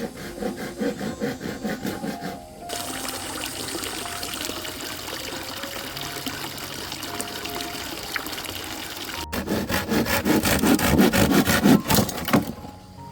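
Hand saw cutting through wood in quick back-and-forth strokes, at the start and again, louder, from about nine seconds in. Between them is a steady rushing noise. Soft background music plays throughout.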